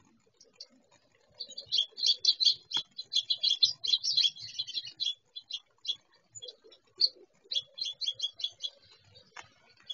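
Small birds chirping in quick runs of short, high chips. A busy run starts about a second and a half in and lasts a few seconds, and another comes near the end.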